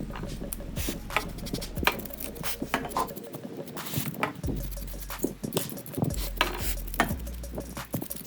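Irregular light clicks and taps of small metal tools and hard phone parts being handled during a phone repair.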